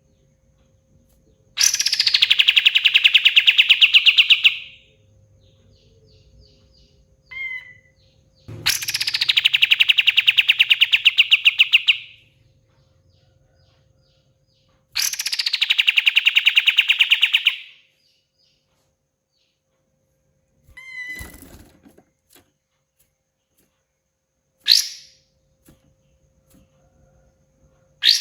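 Kapas tembak (a bulbul) singing three long, fast rattling trills of about three seconds each. Each trill opens with a short high downward note, and short chirps fall between them. A dull thump comes later, then two short sharp calls near the end.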